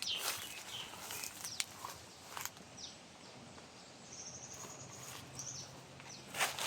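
Footsteps on a garden path, a few separate steps, with a bird giving a quick run of high notes about four seconds in.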